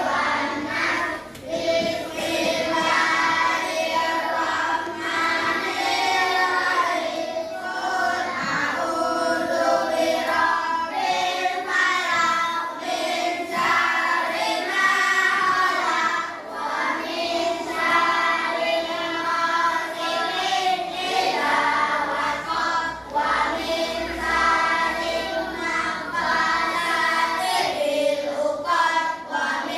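A class of young children singing together in unison, without a break.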